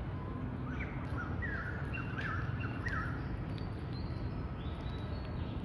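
A bird chirping: a quick run of sweeping chirps in the first half, then a few thin high notes, over a steady low background rumble.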